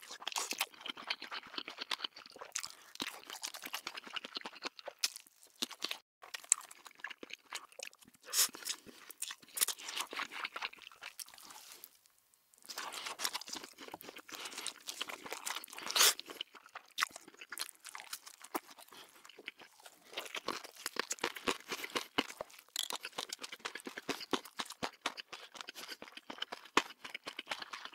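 A person chewing and crunching fried and cheesy food, a dense run of crackly bites and chews with a brief pause about halfway and one sharper crunch soon after.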